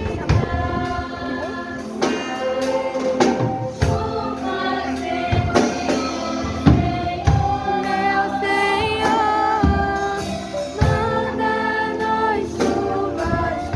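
Gospel hymn sung with instrumental accompaniment and percussion.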